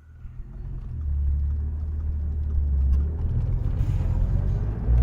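Truck engine running with a deep, steady rumble, starting abruptly and building over about the first second.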